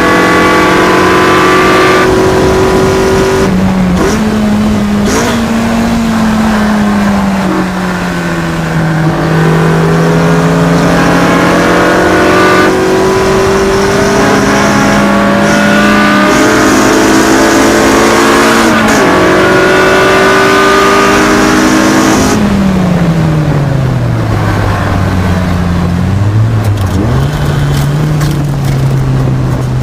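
Honda 2.0-litre inline-four track-car engine at full load around a lap: it revs hard and its pitch steps and slides as the car shifts and slows for corners. About two-thirds through, the revs fall steeply under braking, with a short blip, then climb again.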